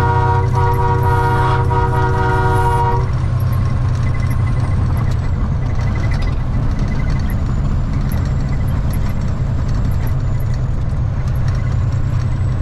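Semi truck's air horn blown as a greeting to people being passed: the end of one blast, a short break, then a long blast of about two and a half seconds that stops about three seconds in. The truck's engine drones steadily in the cab under it and on after the horn stops.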